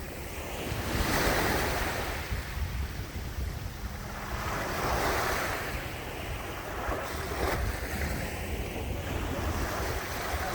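Sea waves breaking and washing ashore, swelling and ebbing every few seconds, with wind rumbling on the microphone.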